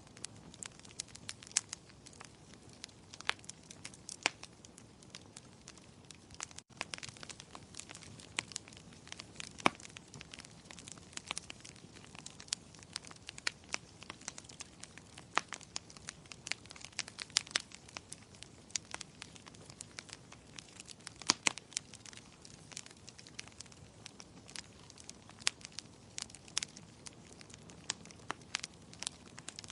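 Wood fire crackling in a fireplace: frequent sharp pops and snaps at irregular intervals over a low, steady hiss, with a momentary dropout about seven seconds in.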